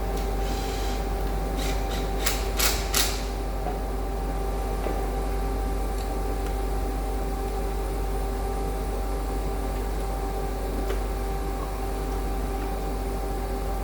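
Steady low electrical hum with a faint steady tone above it, and a quick cluster of sharp clicks about two to three seconds in.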